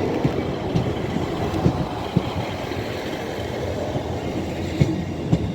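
Train moving through the station: a steady rumble with irregular sharp clunks of wheels over rail joints.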